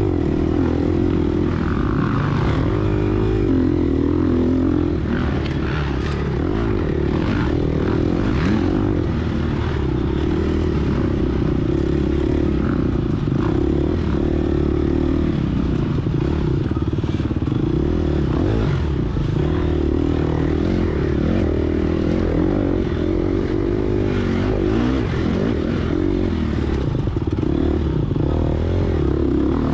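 Gas Gas EX250F four-stroke dirt bike engine running hard under throttle, its pitch rising and falling as the throttle opens and closes, with scattered clatter and knocks from the bike over rough ground.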